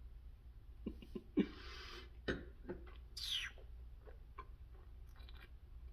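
A person sipping wine: small mouth and glass clicks, a hissing slurp drawing air through the wine about a second and a half in, and a short high squeak a little past three seconds.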